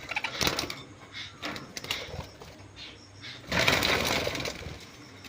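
Pet parrots squabbling and pecking over food: a run of quick, scratchy clicks, with a louder flurry of scuffling about three and a half seconds in.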